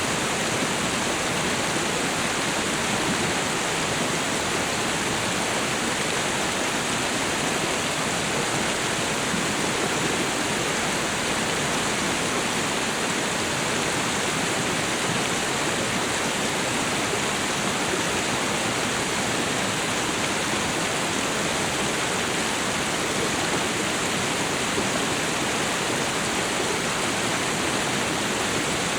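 Waterfall and river rushing steadily, an even roar of falling water with no changes.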